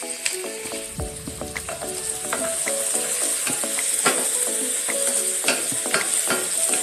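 Chopped garlic and onion sizzling in hot oil in a stainless steel pan: a steady high hiss, broken by scattered clicks and scrapes of a wooden spoon stirring against the pan. Background music plays underneath.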